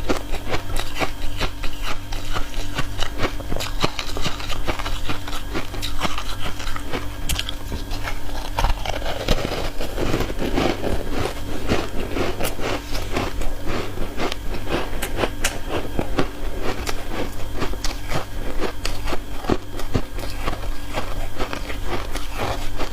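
Close-up crunching and chewing of ice cubes coated in matcha powder, many sharp crunches throughout, with a denser stretch of chewing about nine to eleven seconds in. A steady low hum runs underneath.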